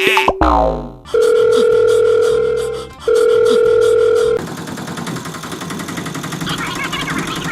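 Two long, steady electronic beep tones, each lasting well over a second, with a brief gap between them, like a telephone tone. They follow a falling, whistle-like glide at the start. About four seconds in, the beeps stop and a steadier, busier background takes over.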